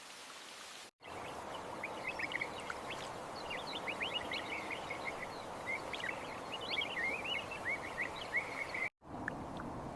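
Small birds chirping with many quick, short calls over a steady outdoor hiss. The sound drops out abruptly for a moment about a second in and again near the end.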